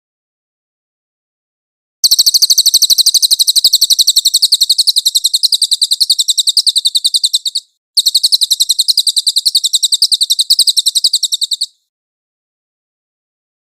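Recorded songbird masteran song: a rapid, high-pitched trill of evenly repeated notes in two long bursts. The first starts about two seconds in and runs nearly six seconds; the second follows almost at once and lasts about four seconds.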